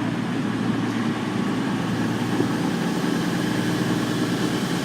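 Diesel engines of a Class 221 Super Voyager running steadily with a low, even hum.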